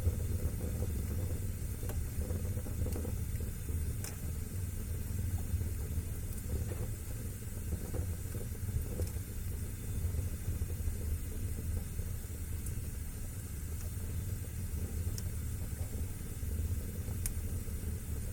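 Fire burning in a fireplace: a steady low rumble of flame with occasional sharp crackles, a few of them near the end.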